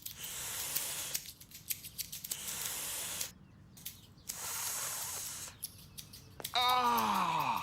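Several short bursts of hissing, each about a second long, with scattered clicks between them. Near the end comes a voice-like tone sliding down in pitch.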